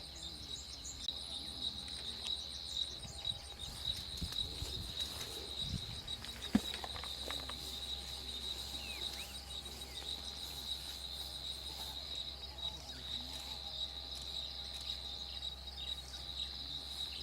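Steady chorus of insects: a continuous, finely pulsing high-pitched trill. A single sharp click about six and a half seconds in.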